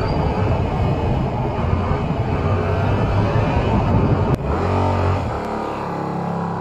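Yamaha R7 motorcycle engine running at speed with heavy wind noise on the microphone; about four seconds in, a cut to a quieter, steady engine note.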